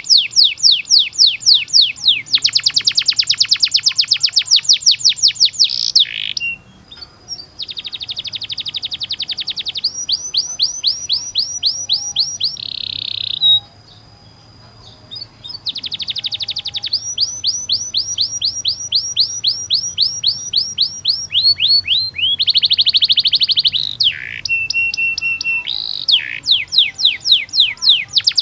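Domestic canary singing long, fast trills (rolls), each a rapid run of repeated down-sweeping notes, changing from one trill type to the next with brief pauses about a quarter and half way through and a steadier held note near the end.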